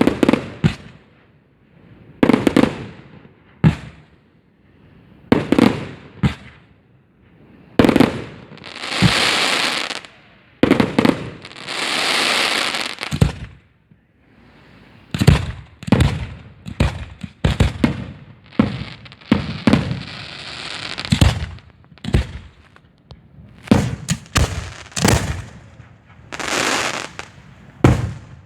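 Fireworks display: a run of sharp bangs from bursting shells, some in quick clusters, alternating with longer hissing, crackling passages lasting a second or two.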